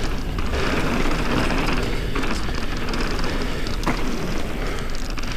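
Mountain bike riding down a dirt trail: a steady rush of tyre and trail noise with a low rumble, and a few sharp knocks and rattles from the bike going over bumps.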